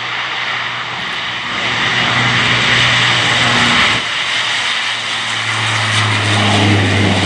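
Four Rolls-Royce AE 2100D3 turboprops of an AC-130J Ghostrider gunship running loud at takeoff power: a steady low propeller hum under a rushing engine noise, the hum growing stronger in the second half.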